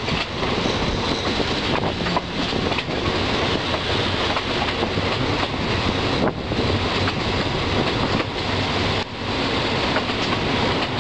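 Passenger train running along the track, heard from beside the carriage: a steady rumble and rush of wheels on rails, with scattered rail clicks.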